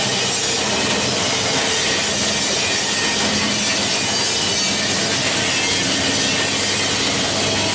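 Plastic bottle recycling and washing line machinery running: a steady, even mechanical noise with a faint low hum underneath.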